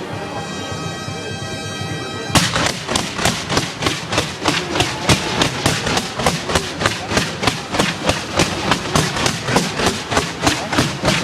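A steady shrill tone with many overtones for about the first two seconds, then fireworks going off in a rapid, even run of sharp cracks, about four a second.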